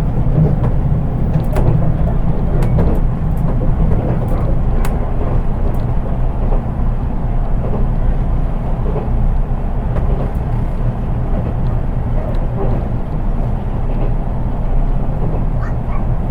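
Cabin running noise inside an unpowered JR East 183 series driving car (KuHa 183): a steady low rumble of wheels on rail with occasional faint clicks, and no motor whine.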